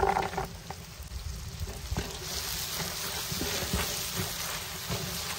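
Sliced red onions and garlic cloves sizzling in hot oil in a large aluminium pot. A wooden spatula stirs and scrapes them, and there is a brief louder splash of sizzling as the garlic goes in at the start.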